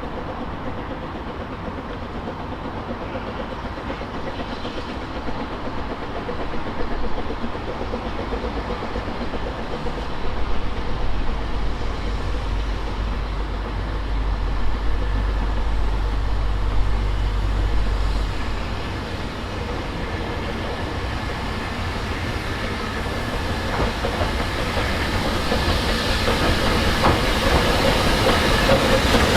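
Narrow-gauge steam train running along the line with a steady rumble and rail noise. It grows louder toward the end, where a fast, regular beat comes in.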